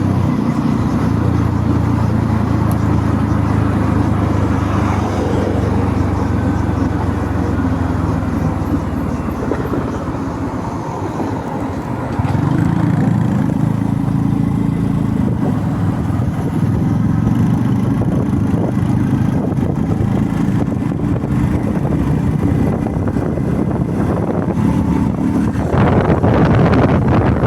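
Motorbike engine running steadily under way. The note eases off about ten seconds in, then picks up to a higher, louder pitch a couple of seconds later and holds there. Near the end a gust of wind noise rushes over the microphone.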